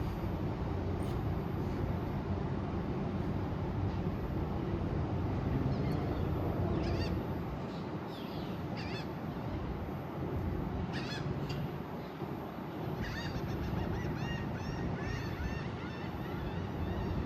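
Birds calling in short, chirpy notes, scattered at first and then a quick run of repeated calls near the end, over a steady low rumble.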